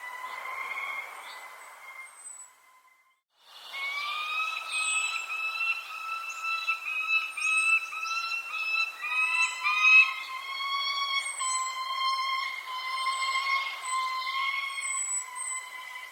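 Small birds chirping and tweeting in many short calls over a steady, high whistle-like tone. All sound drops out for about a second around three seconds in, then the chirping resumes, busier than before.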